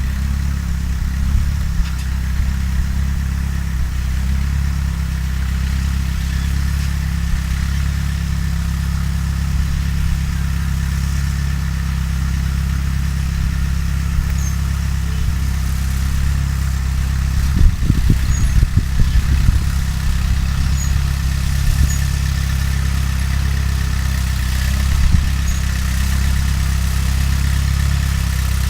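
Fiat 352C tractor engine, freshly restored, running steadily at a low, even pitch. About two-thirds of the way through there is a short run of knocks and clatter.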